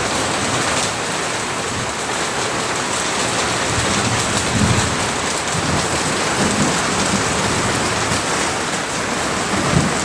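Heavy rain pouring down steadily in a thunderstorm, with low rumbles of thunder swelling now and then.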